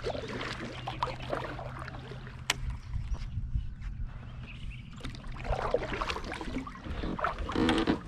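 Sounds of a fishing kayak on the water, with birds chirping around it. There is a sharp click about two and a half seconds in.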